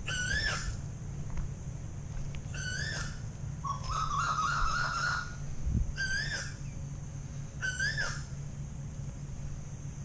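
Bird calls, the Asian koel the hunter is waiting for: four short whistled notes that rise and fall, a few seconds apart, with a longer stuttering call that steps up in pitch between the second and third. A steady low hum and a high insect-like buzz run underneath.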